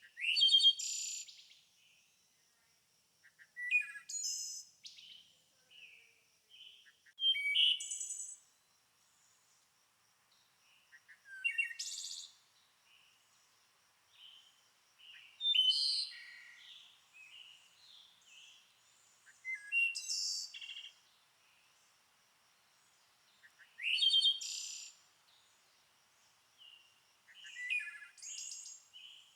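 A songbird singing loud, short phrases about every four seconds, with softer chirps between them. A faint steady high-pitched trill runs underneath.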